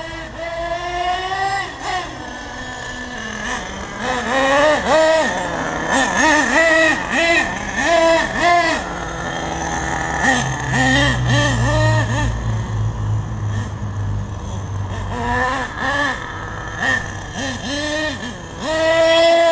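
Nitro engine (RB MT10, 4.6 cc) of an HPI Savage 1/8 RC monster truck, running on 15% nitro fuel, revving up and down in quick repeated bursts as the truck is driven, with steadier running in between.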